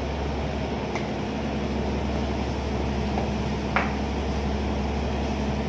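Steady low drone of a ship's machinery, an even hum that does not change, with one sharp click a little before the end.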